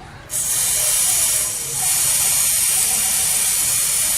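WD-40 aerosol can spraying onto a motorcycle chain: a loud, steady hiss that starts suddenly a moment in, eases briefly about a second and a half in, then carries on.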